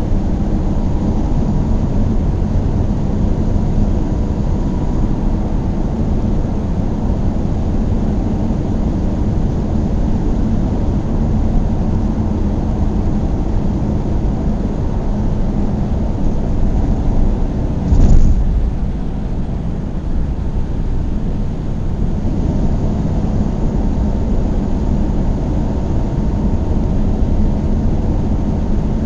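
A car driving at a steady speed, with a continuous low drone of engine and road noise. About eighteen seconds in comes one brief, loud thump.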